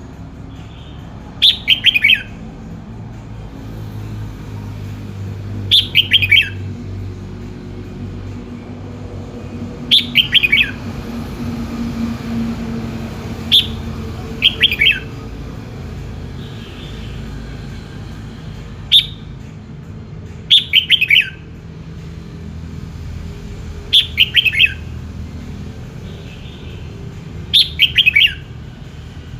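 Red-whiskered bulbul singing: short, bright phrases of a few quick notes falling in pitch, repeated about every three to four seconds over a steady low rumble.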